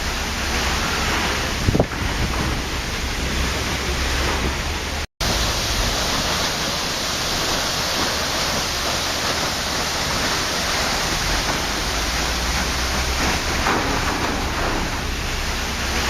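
Waterfall rushing, a steady dense roar of falling water, broken once about five seconds in by a split-second dropout to silence.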